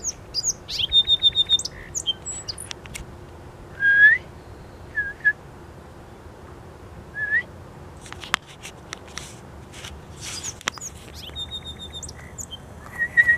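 A small songbird chirps in quick rattling trills near the start and again near the end, with short rising whistled notes a few times in between. A patch of clicks and rustling comes about two-thirds of the way through.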